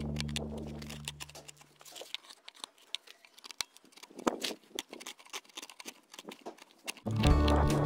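Background music fades out, then irregular short scrapes and clicks of a hand gouge cutting into a wooden root-burl bowl. The music comes back near the end.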